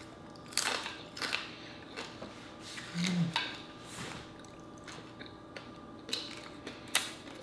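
Close-up chewing of crispy dried fish with rice: a string of sharp crunches about once a second, with a brief low hum about three seconds in.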